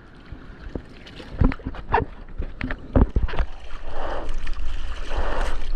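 Seawater splashing and sloshing right against a surfer's GoPro. There are several sharp knocks of water in the first half, then whooshes about a second apart over a low rumble.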